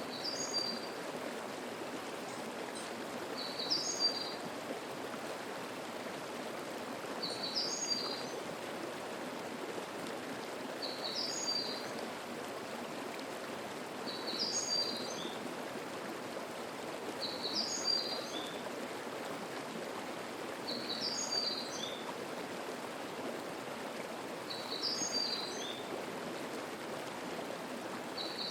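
A mountain stream babbling steadily, with a small bird repeating a short, high song phrase about every three and a half seconds.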